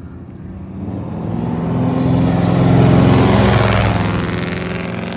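Race vehicle's engine under hard acceleration passing by at speed: it swells to a peak about three seconds in, then fades as it goes away.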